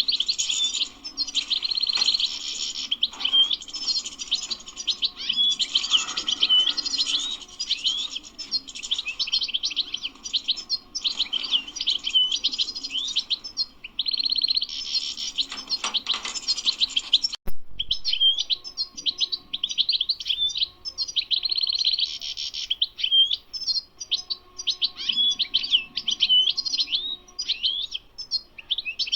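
European goldfinch singing a long, fast twittering song of rapid, gliding high notes, with short pauses and a brief break about two-thirds of the way through.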